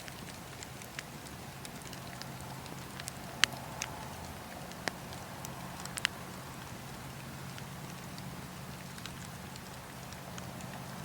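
Wood fire burning in a fireplace, with a steady soft hiss and scattered sharp crackles and pops, the loudest about three and a half and six seconds in.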